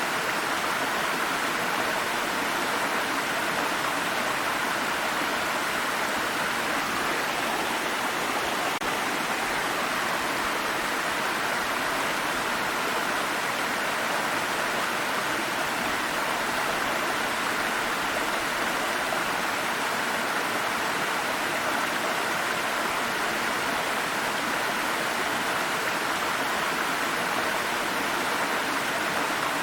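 A small stream of water rushing and babbling over rocks in a steady, unbroken flow.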